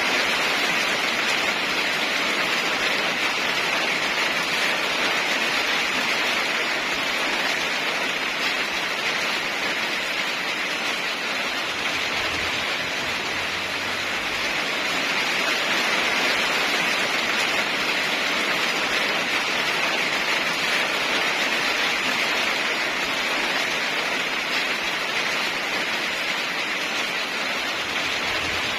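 Heavy rain falling steadily, a dense even hiss that swells and eases slightly in loudness.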